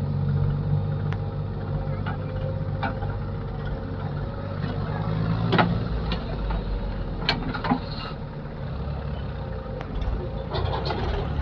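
Diesel engine of heavy machinery running steadily with a low hum, with several short sharp clicks and knocks along the way.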